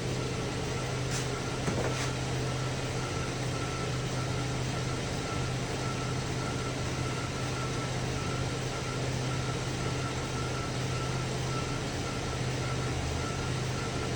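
2010 Chevy Traverse's 3.6-litre V6 engine idling steadily, an even low hum, with a faint click or two about a second in.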